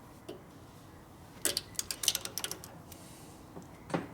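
Irregular sharp metallic clicks and clinks of hand tools on the motorcycle's studs, a quick cluster in the middle and a couple more near the end.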